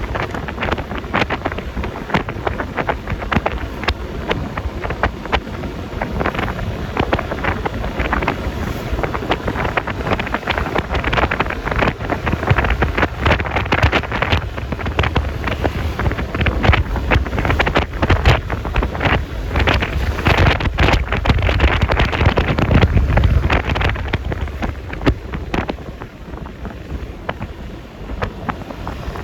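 Wind buffeting the microphone, with road and traffic noise, on a moving Yamaha Lexi LX 155 scooter. The rumble swells through the middle and eases a little near the end.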